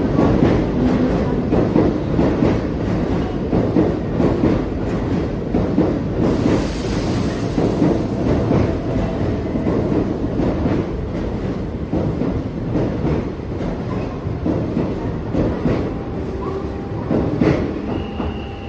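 Keikyu train, a 600 series coupled with a new 1000 series, running past: wheels clatter over the rail joints in a dense run of clicks, and the sound slowly fades as the train goes by.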